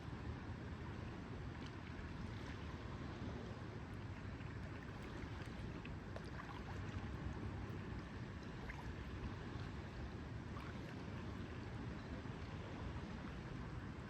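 Lake water lapping gently over a steady low rumble, with faint small drips and ticks scattered through.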